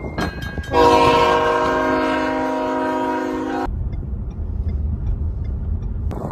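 A loud horn blast about three seconds long, sounding one steady chord of several notes and cutting off sharply, followed by a low rumble.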